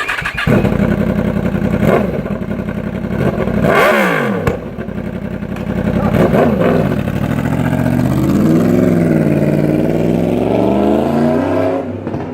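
Yamaha FZ-10's crossplane inline-four running loud through a Remus exhaust with the catalytic converter deleted, revved in several quick throttle blips and then one longer, slower rev in the second half.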